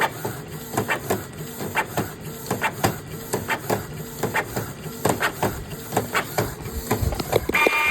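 Canon Pixma G2010 inkjet printer running a nozzle check print: its motors run with a steady hum under a string of irregular clicks and knocks from the paper feed and print mechanism.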